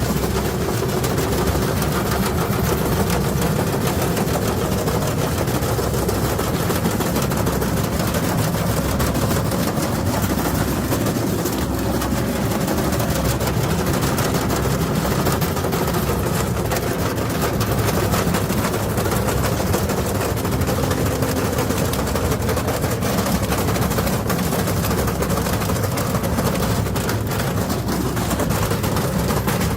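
Beko washing machine spinning with bricks loaded in the drum: continuous loud, rapid banging and rattling as the drum and bricks hammer around inside the cabinet.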